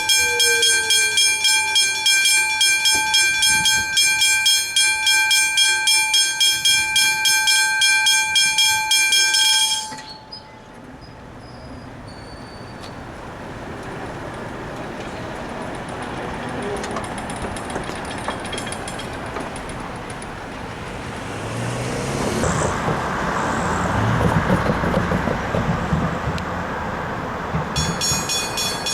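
Level crossing warning bells ringing rapidly, cutting off about ten seconds in. A train then rumbles through the crossing, growing louder, and the bells start ringing again just before the end.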